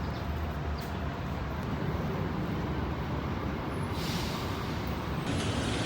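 Steady low rumble and hiss of a vehicle in motion, the hiss growing brighter about four seconds in.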